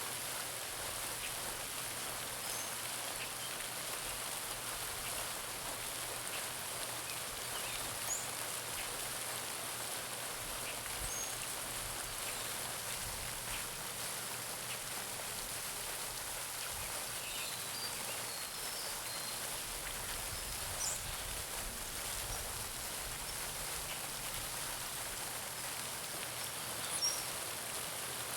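Garden pond fountain splashing steadily, its spray falling back onto the pond surface in a constant rain-like patter. A few brief, high bird chirps come through it now and then.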